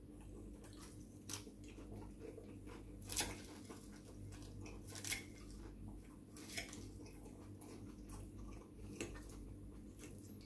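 Quiet eating sounds: a person chewing a forkful of salad and ravioli, with a handful of short sharp clicks spaced a second or two apart.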